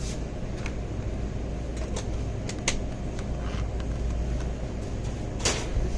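Steady low hum of store background noise, with a few light clicks and rattles scattered through it, the loudest about five and a half seconds in.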